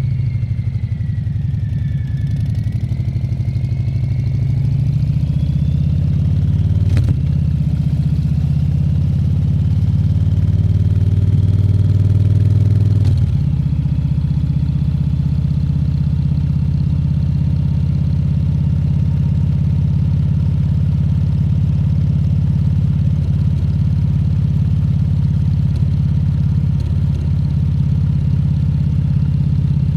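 Harley-Davidson Fat Bob 114's Milwaukee-Eight 114 V-twin running under way. The engine note climbs for several seconds, drops sharply about thirteen seconds in as the bike shifts or rolls off, then holds steady.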